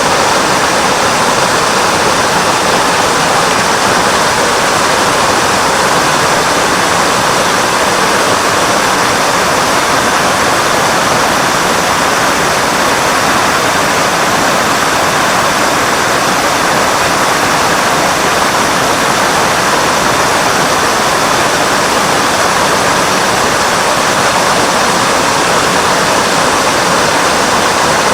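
Mototaki Fukuryusui waterfall: spring water pouring over a wide rock face in many small falls, a loud, steady rush.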